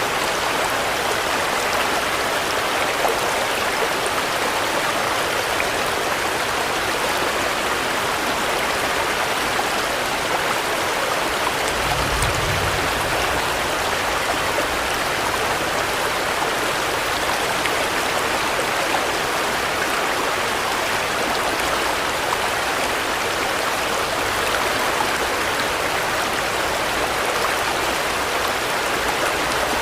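Steady rain, a dense and even hiss of falling drops, with a brief low rumble about twelve seconds in.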